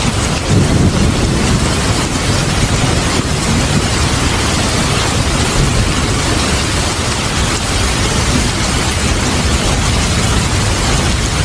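Steady heavy rain with low rolling thunder rumbling beneath it, the rumble strongest about half a second to a second in.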